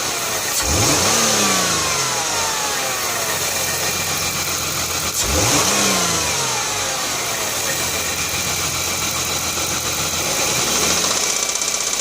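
Jaguar X-Type engine revved sharply twice, about five seconds apart, each blip rising and falling back to a steady idle. Near the end a fast, rhythmic knocking sets in, the knock the owner hears when accelerating hard and takes for the engine's problem.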